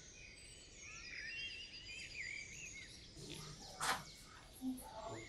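Faint birds chirping in the background, a run of quick rising and falling chirps, followed about four seconds in by a single sharp click.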